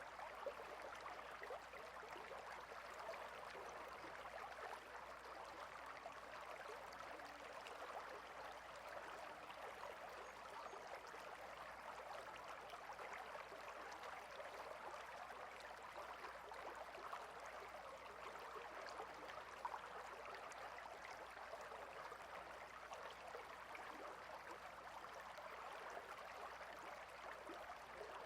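Water stream flowing, a faint, steady rush of running water.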